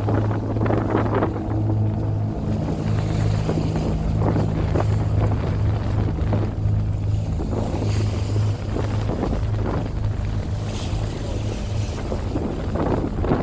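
A sailboat's engine running with a steady low drone under repeated splashes of waves against the hull, with some wind on the microphone.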